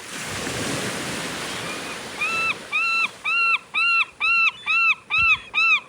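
A gull calling a rapid series of short, arched, high-pitched notes, speeding up to about three a second: the gull long call. It begins about two seconds in, after a rushing noise.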